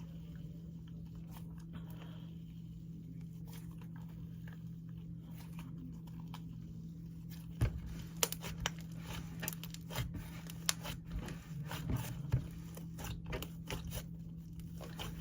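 Dense clay slime being squished and stretched by hand, giving sparse soft clicks at first and then frequent small pops and crackles from about halfway through. A steady low hum runs underneath.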